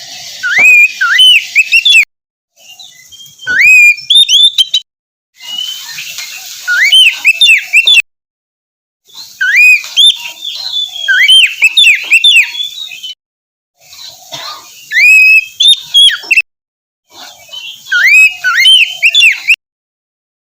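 Oriental magpie-robin (kacer) singing loud, fast whistled phrases that glide up and down, about six phrases of a few seconds each, every one cut off by a sudden dead silence.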